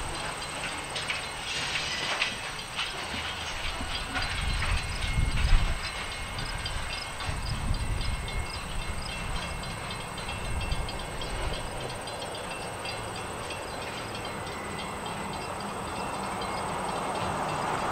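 Freight cars loaded with pulpwood logs rolling slowly away on jointed track: steady wheel clicking over the rail joints, with low thumps and clanks from the cars in the middle. A hiss swells near the end.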